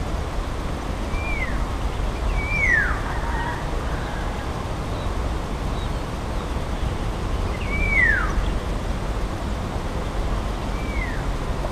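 A bird calls four times, each call a short falling whistle: two in the first few seconds and two later on. A steady low rumble runs underneath.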